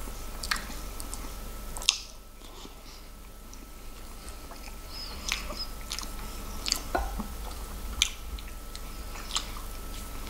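Close-miked eating: a man chewing a mouthful of corned beef hash, with scattered short clicks and wet smacks from his mouth and the wooden chopsticks and spoon.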